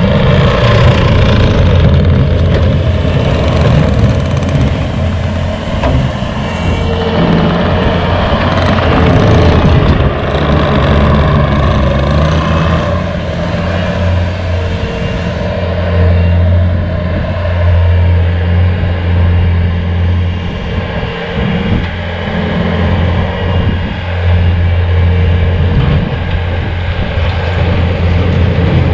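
Bobcat T595 compact track loader's diesel engine running steadily with its SB200 snowblower attachment, the engine note stepping up and down a few times in the first half.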